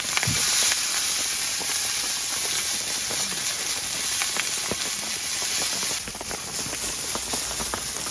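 Fried rice sizzling and hissing in a hot pan; the hiss eases a little about six seconds in.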